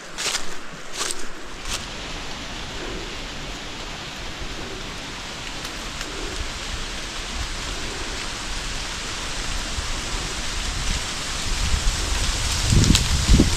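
Steady rushing of a mountain stream flowing, with a few footsteps in the first couple of seconds. Near the end, wind starts buffeting the microphone in loud low gusts.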